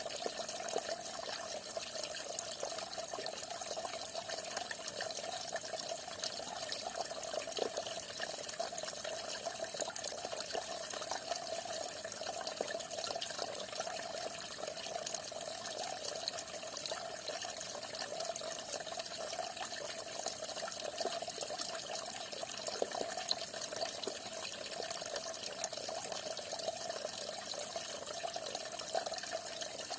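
Falling water splashing steadily: an even rush with many small splashes and drips, unchanging throughout.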